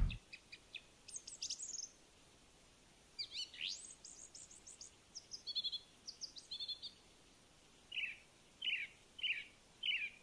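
Wild birds calling: scattered high chirps and quick trills, one sweeping call a little over three seconds in, then from about eight seconds a run of short down-slurred notes about every half second.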